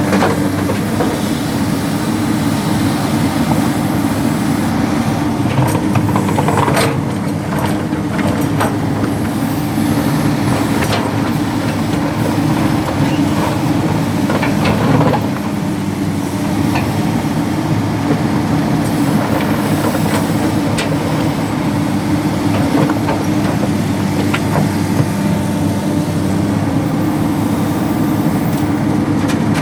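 Excavator diesel engine running steadily under work, with a few sharp knocks and clatters scattered through it.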